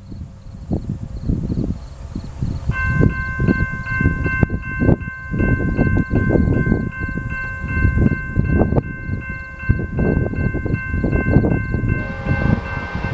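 A railroad bell rings steadily and evenly from about three seconds in, over the loud, uneven low rumble of a passing coal hopper train. A different set of lower tones joins near the end.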